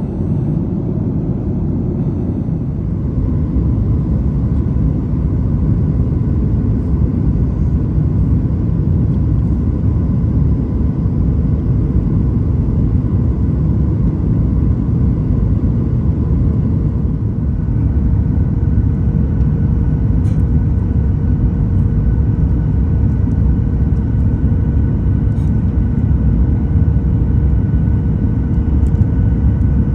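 Steady cabin rumble of a Boeing 737 MAX 9 on descent, engine and airflow noise heard from inside the cabin. A steady hum joins in about halfway through and holds.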